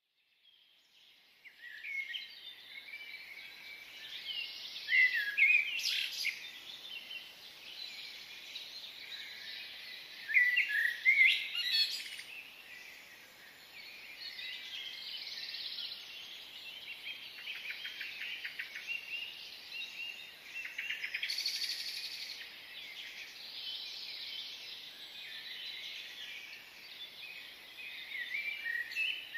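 Birds chirping and singing, many short calls overlapping, with several louder bursts of calls and a rapid trill near the middle.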